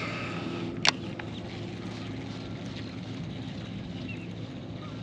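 A boat motor runs with a steady low hum, with one sharp click just under a second in and a few faint high chirps near the end.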